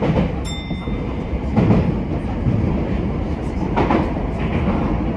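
Tokyo Metro 10000 series train running on the line: a steady rumble of wheels on rail, with heavy knocks at uneven spacing about every two seconds. A short high electronic tone sounds about half a second in, and again near the end.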